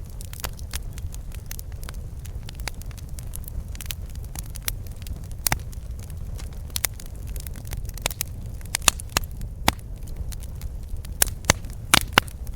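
Wood campfire crackling: irregular sharp pops and snaps over a low steady rumble of the burning fire, with a cluster of louder pops near the end.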